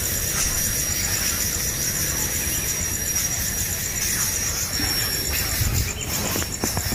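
A steady, evenly pulsing high insect trill over a low rumbling background, with a few short sharp sounds near the end.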